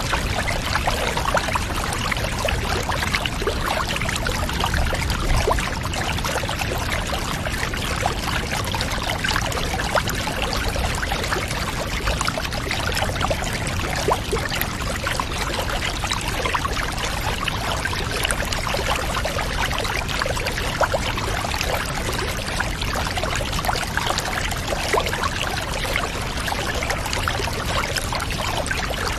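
Water running and trickling steadily into a bath, with many small splashes and drips throughout.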